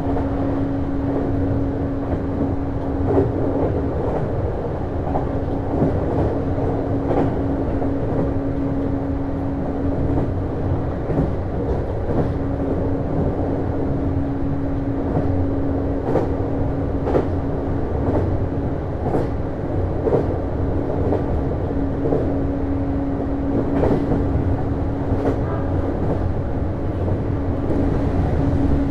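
Inside a JR East HB-E210 series hybrid railcar running along the line: a steady rumble with a continuous hum that drops out briefly several times, and scattered sharp clicks from the wheels on the track.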